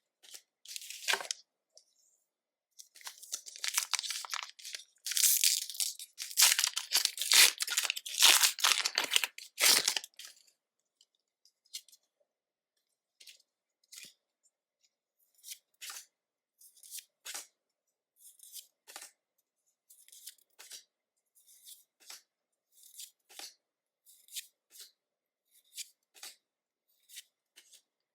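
Foil wrapper of a Pokémon trading card booster pack torn open and crinkled for several seconds, then a run of short, soft taps and slides as the cards are handled one at a time.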